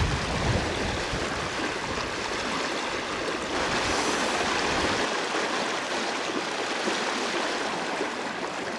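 River water rushing steadily over a fast, fresh run. Wind buffets the microphone as a low rumble for the first five seconds or so, then eases.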